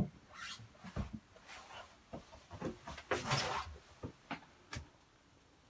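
Faint rustles and a few light knocks, with a louder breath-like swish about three seconds in.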